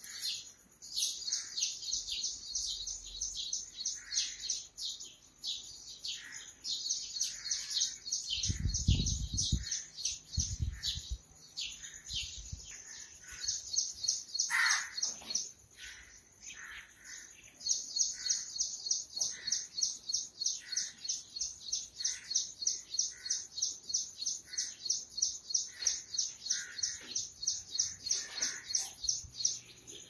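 Small birds chirping in a dense morning chorus: rapid high chirps repeating about three or four times a second, with lower calls mixed in. A brief low rumble comes about eight to eleven seconds in.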